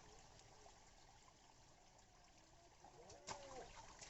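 Near silence: faint background hiss, with a short faint voice and a click a little after three seconds in.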